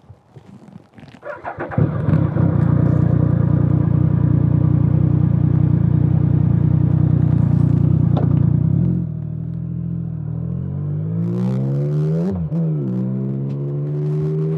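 A motorcycle engine starts about a second and a half in and runs steadily at a raised idle, then pulls away, rising in pitch through the gears with a shift near the end.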